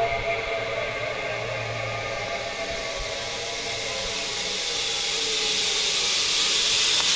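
Zip line trolley pulleys running along the steel cable: a steady whirring whine under a rushing hiss that grows louder and brighter through the second half as the rider gathers speed.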